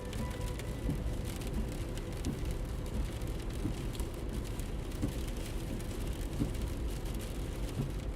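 Rain on a moving car heard from inside: a steady low rumble of engine and road with scattered raindrop taps.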